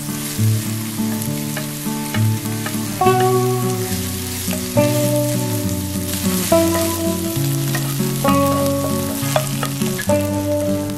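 Sliced green onions sizzling in oil in a pan on low heat, stirred with a wooden spatula as the scallion oil is drawn out. Background music plays over it.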